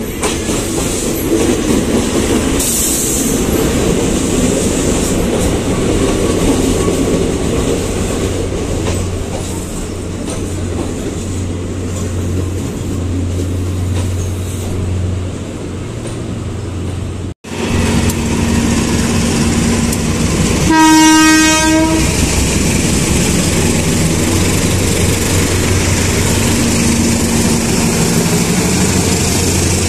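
Philippine National Railways diesel train running, with a steady low engine rumble and wheel noise on the rails. The sound breaks off abruptly about two-thirds of the way through, then the train continues, with one horn blast about a second long.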